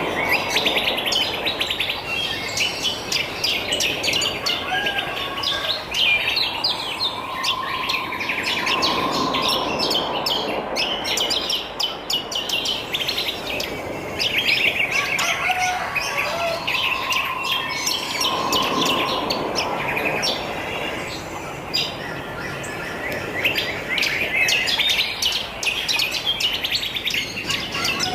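Wild songbirds chirping and singing together, many quick overlapping chirps and trills, with a lower held call coming back about every nine seconds.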